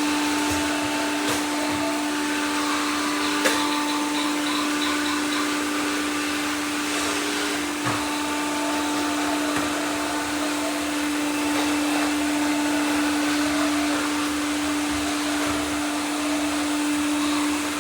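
Robot vacuums running together: a steady motor hum and hiss of fans and brushes. A sharp knock comes about three and a half seconds in and a softer one near eight seconds.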